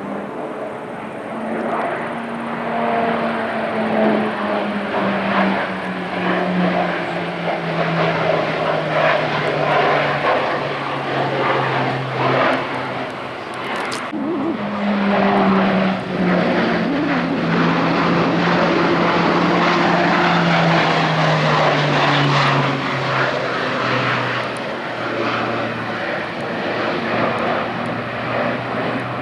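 E-2 Hawkeye's twin turboprop engines and propellers droning loudly. The pitch falls steadily, breaks off abruptly about 14 seconds in, then starts higher and falls again.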